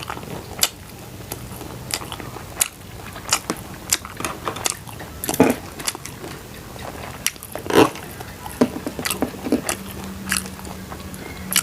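A person biting and chewing crunchy food close to the microphone, with sharp, irregular crunches several times a second.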